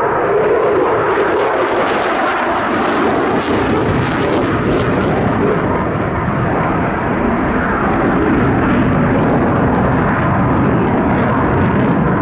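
Loud, steady jet noise from an RAF Eurofighter Typhoon's twin EJ200 engines as the fighter flies a barrel roll into a maximum rate turn, with some crackle a few seconds in.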